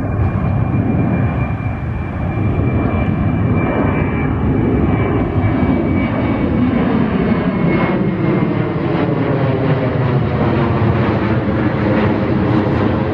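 Southwest Boeing 737-800's CFM56 turbofans at high power during a go-around, a steady jet noise with a high whine that falls slowly as the airliner passes.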